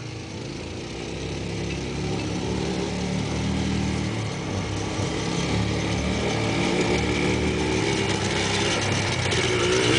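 ATV engines running steadily, their pitch shifting a little with the throttle, growing louder over the first few seconds and then holding steady.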